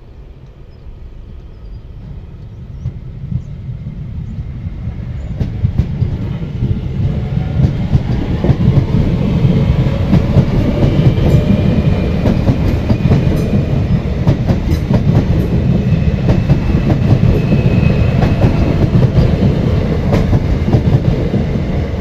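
Irish Rail DART electric commuter train approaching and running past close by: a rumble that grows over the first several seconds, then wheels clicking steadily over the rail joints, with a faint high whine in the middle.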